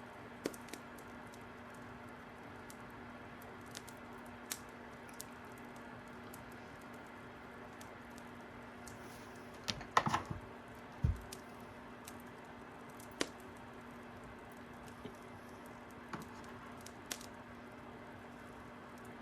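Fire crackling: sparse, irregular pops and snaps over a faint steady hum, with a short cluster of louder snaps and a dull thump about ten seconds in.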